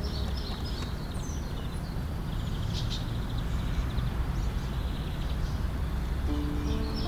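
Birds chirping now and then, in short high series, over a steady low outdoor rumble.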